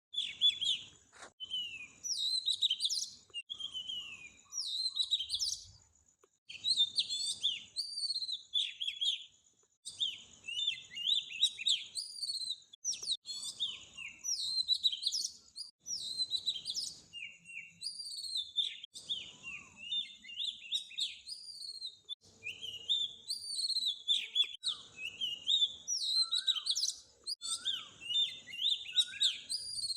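Small birds chirping and singing in a dense, continuous chorus of quick, high, sliding notes that overlap one another, with brief lulls about six and ten seconds in.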